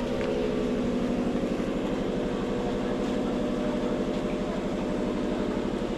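A motor engine running steadily at an even speed, with a fast, regular firing pulse.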